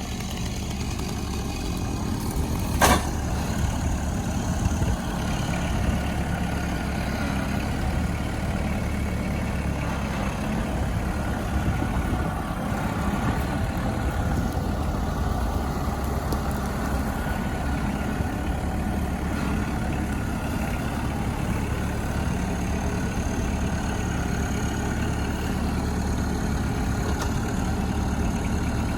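Kubota tractor's diesel engine running steadily at a low idle, with a single sharp knock about three seconds in.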